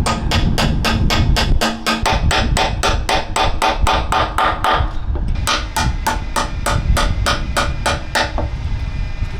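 Rapid, even hammering on steel, about five blows a second, with a short pause about five seconds in before a second run. The work is knocking out tapered bolts from the Wespe's armour plate.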